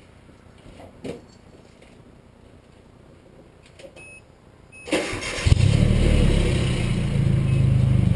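A few faint clicks and a short beep, then the starter cranks and the Nissan KA24E four-cylinder catches about five and a half seconds in and settles into a steady idle. The exhaust is a 2-inch glasspack muffler with no tailpipe, giving a low rumble.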